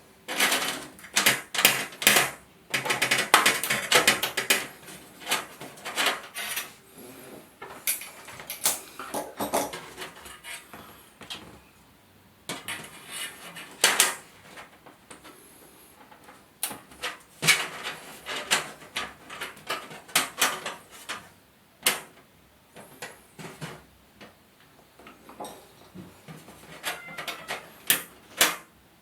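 Clicks, taps and knocks of small plastic and metal parts being handled and fitted by hand while the new LED backlight bars go into the TV, coming in busy clusters with quieter pauses in between.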